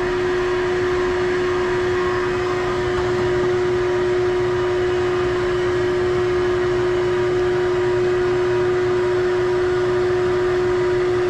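Electric vacuum running steadily with a strong constant hum, sucking on a hose taped to a car's dipstick tube to try to draw out the engine oil.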